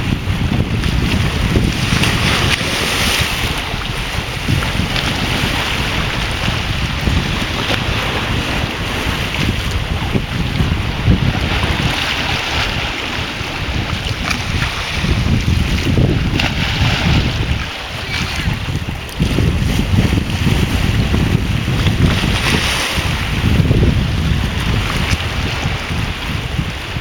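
Sea of Azov waves washing onto the shore, the hiss swelling every few seconds as each wave breaks, under heavy wind buffeting on the microphone.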